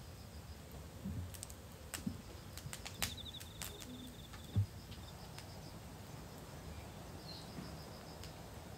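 Campfire crackling: scattered sharp pops and clicks with a few soft thumps, over a quiet outdoor background with a short high chirping trill twice.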